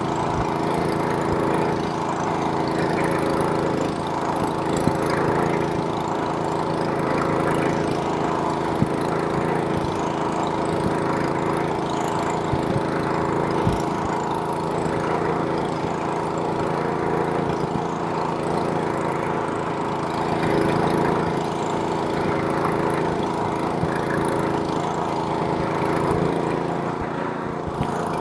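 Snowblower's small gasoline engine running steadily at an even pitch, with a few brief sharp ticks.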